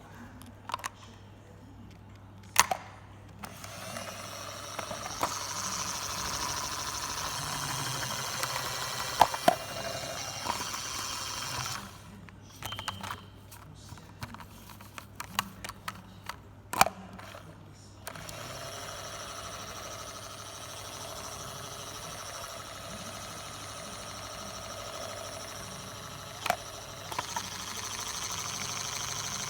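Toy washing machine: a few clicks and knocks, then its small motor whirring steadily with a low hum. The motor stops for a run of clicks and then whirrs again.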